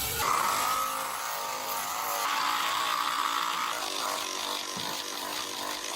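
A power tool running with a steady buzzing whine.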